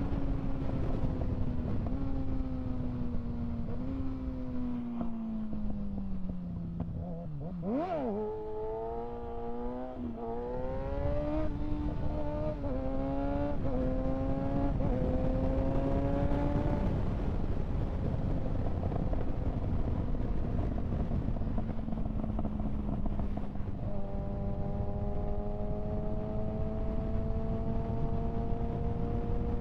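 2025 Kawasaki ZX-6R 636's inline-four engine while riding: it winds down for several seconds, gives a quick rev blip about eight seconds in, then pulls hard up through the gears in a run of rising sweeps, each cut short by an upshift. It then settles to a steady cruise, with wind rushing over the microphone.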